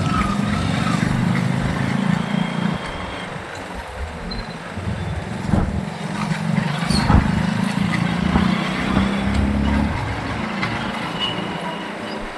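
Motorcycle riding in city traffic: a steady low engine hum that swells and eases, over road and wind noise.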